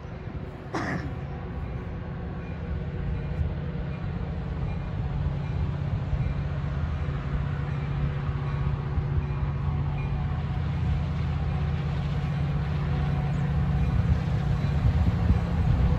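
Metra commuter train's diesel locomotive approaching from a distance: a steady low engine drone with rail rumble that grows louder toward the end.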